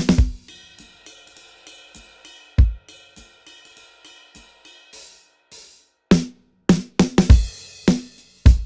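Drum kit track run through a dbx 160-style VCA compressor plugin: a full beat of kick, snare and cymbals drops into a sparse break of light hi-hat ticks and a single kick under a ringing held tone, then the full beat comes back about six seconds in.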